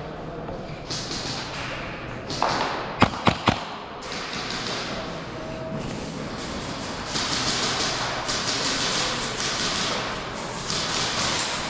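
Four quick, sharp cracks about three seconds in, typical of an airsoft gun firing a short string of shots, over steady footsteps and gear rustling.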